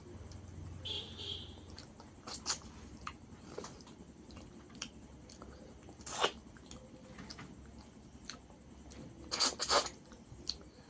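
A person chewing and eating rice with tilapia fish curry, with scattered wet mouth smacks and sharp clicks. The loudest come about six seconds in and as a short cluster near the end.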